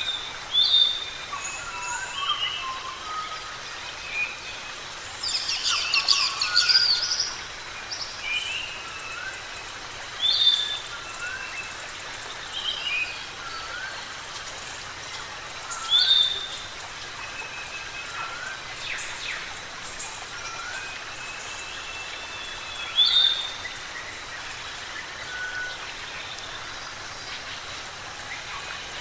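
Several forest birds calling: a loud short call repeats every five to seven seconds, among many softer rising whistles, with a dense chattering burst about six seconds in, over a steady background hiss.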